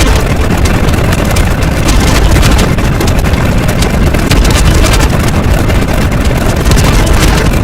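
Loud, steady rushing noise with a heavy deep rumble underneath, dense and unbroken, with no clear pitch or rhythm.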